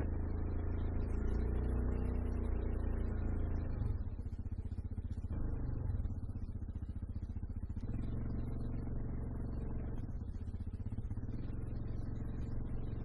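Motor vehicle engine running steadily, a low rumble that takes on an even pulsing about four seconds in.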